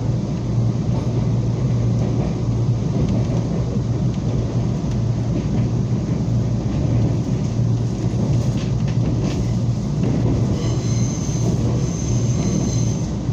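Local electric train running at speed, heard from inside the carriage: a steady low rumble of wheels on rails. A high whine comes in near the end.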